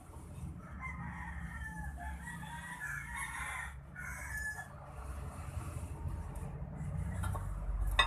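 A bird calling: a wavering, pitched call lasting a few seconds, over a steady low rumble, with a sharp click near the end.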